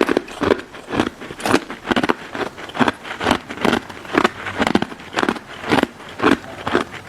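Close-miked crunching of a crisp icy pink dessert being chewed, in a steady rhythm of about two crunches a second.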